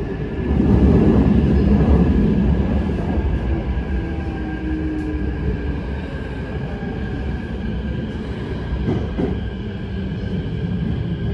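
Keikyu 1000 series EMU with Mitsubishi full-SiC VVVF traction heard from inside the car: the rumble of wheels on rail with the drive's steady whine tones above it, heaviest about one to three seconds in.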